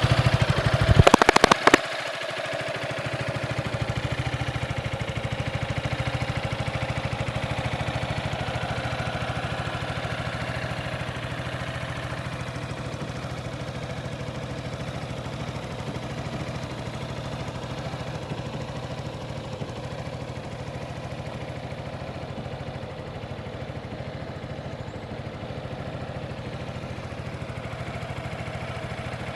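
Yamaha XMAX 300 scooter's single-cylinder engine idling steadily. It is louder in the first two seconds, with a few sharp clicks, then settles to a quieter even idle.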